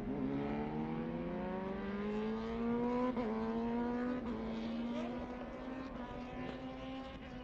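Grand Prix racing motorcycle engines out on track, several at once: some pitches climb steadily as bikes accelerate, while another holds a steady note.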